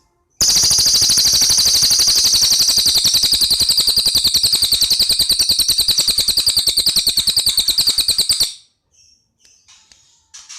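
A songbird's loud, rapid trill of evenly repeated high notes, about ten a second, starting abruptly about half a second in and cutting off after about eight seconds. A few faint short chirps follow near the end.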